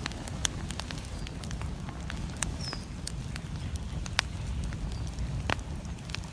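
Wood fire crackling, with scattered sharp pops and snaps, over a steady low rumble of storm wind.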